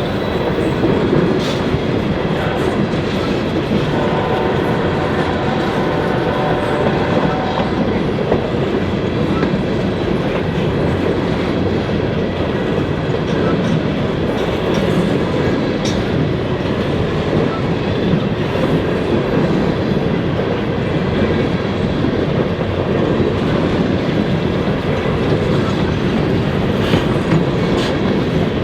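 A train's cars rolling past, the wheels running on the rails in a loud, steady rumble.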